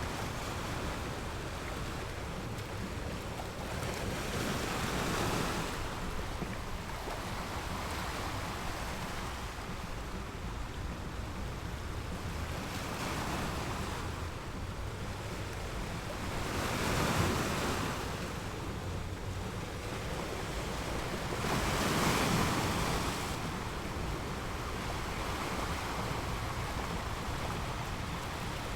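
Sea surf breaking on a sandy beach, a steady wash of noise that swells into louder breaking waves every few seconds, the biggest two a little past the middle. A low wind rumble on the microphone runs underneath.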